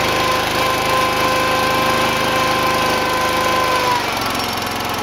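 A small engine running steadily, with a high whine over it that fades away about four seconds in.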